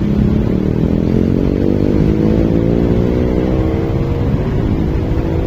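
Motorcycle engine running under way and accelerating, its pitch rising steadily, over a constant low rumble of road and wind noise.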